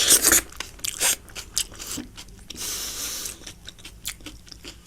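Close-miked chewing of a mouthful of chicken and pork biryani, with many short wet clicks of the mouth. The loudest burst comes at the very start, another about a second in.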